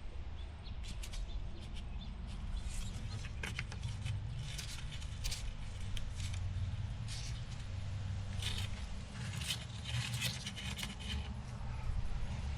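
Small metal parts and hand tools clinking and scraping, with many short sharp clicks over a steady low hum. The parts are threaded pieces being handled and tried against a steering gear.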